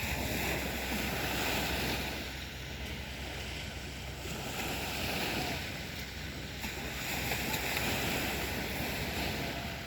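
Black Sea waves washing onto a beach, the surf swelling and easing in surges a few seconds apart.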